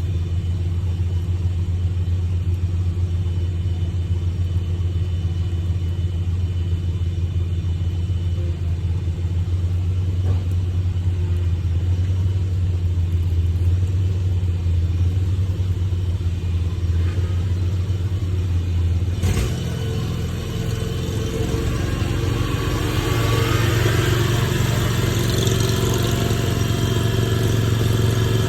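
A vehicle engine idling steadily. About two-thirds of the way through there is a click, and the engine note changes and grows stronger, as if it is running under more throttle or load.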